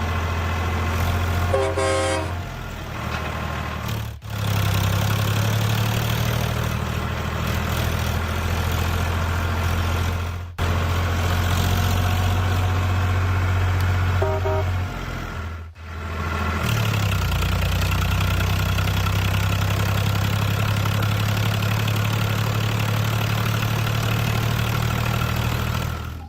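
A truck engine running steadily with a low hum, broken off abruptly a few times. Short horn toots sound about two seconds in and again about fourteen seconds in.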